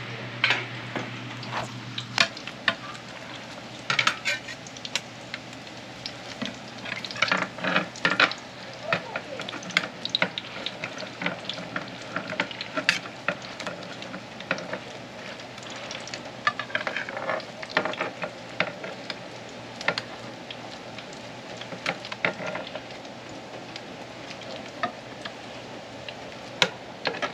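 Fish cake hotteok dough sizzling in shallow oil on a round electric griddle, with frequent sharp clinks and scrapes as a stainless-steel hotteok press flattens the patties against the pan.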